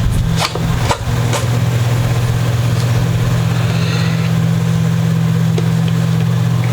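A steady low mechanical hum, like a motor or fan running. Within the first second and a half there are a few short ripping sounds as masking tape is peeled off a guitar.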